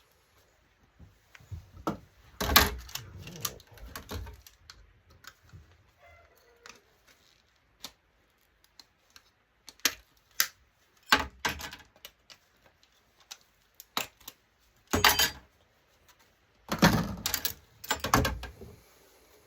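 Irregular clicks, clinks and clatters of hand tools and small metal and plastic parts being handled while an LCD monitor's boards and parts are taken apart for scrap, with a few louder knocks and rattles about two seconds in and again near the end.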